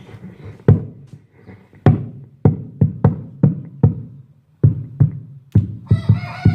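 Percussion: about a dozen sharp, drum-like hits in a loose, uneven rhythm.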